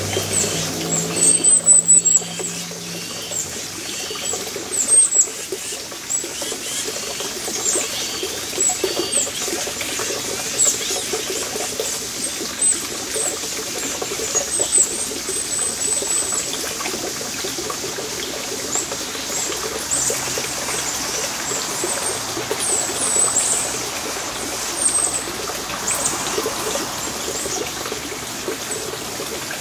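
Many short, high bird chirps repeating throughout over a steady trickling, water-like rush, with a brief loud knock or rustle about a second or two in.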